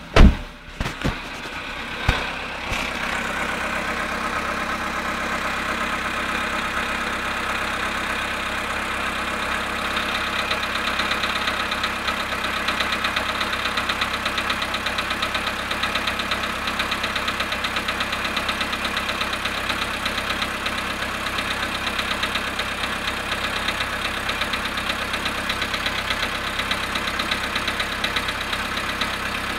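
Volkswagen Polo Sedan engine, started cold at −1 °C after standing 19 hours. A few loud thumps in the first couple of seconds, then it settles to a steady idle with a rapid, even knock: the cold-start engine knock the owner is recording.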